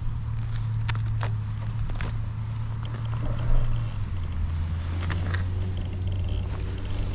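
Honda Rebel 300's single-cylinder engine running at low revs with a steady low note that steps down in pitch about halfway through, with scattered short clicks and one louder knock a little before that.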